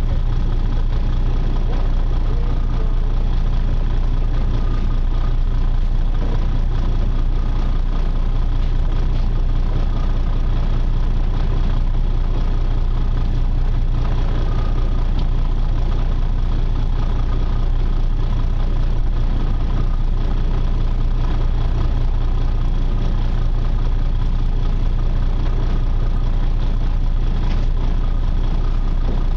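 Charter fishing boat's engine running steadily: a constant low drone with a faint steady whine above it.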